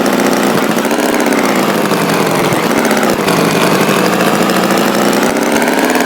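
Tractor engine running steadily, its pitch wavering gently up and down.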